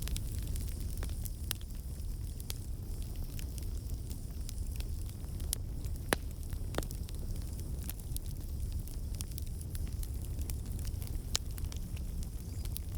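Campfire burning: a steady low rumble of flames with frequent crackles and sharp pops from the burning wood, two louder pops a little past halfway.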